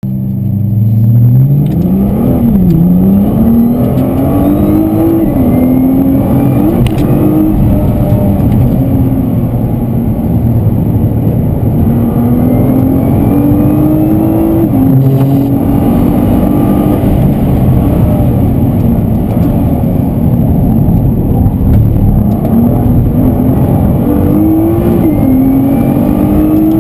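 Car engine heard from inside the cabin while driven hard, climbing in pitch under acceleration and dropping sharply at each upshift, several times over, with steady road noise underneath.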